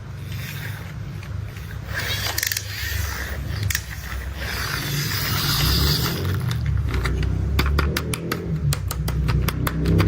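A low engine-like rumble that grows louder, with scattered clicks and a hissing stretch in the middle, then a fast run of sharp clicks and clatter near the end.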